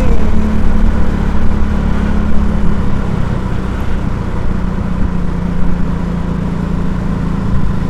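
A motor vehicle's engine runs with a steady low hum under loud road and traffic noise.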